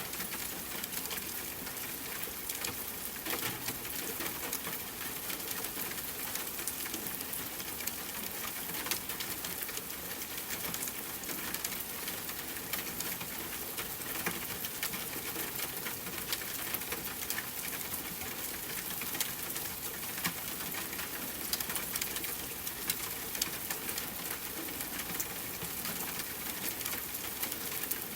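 Steady rainfall hiss mixed with a wood fire crackling, with frequent small sharp pops scattered through it.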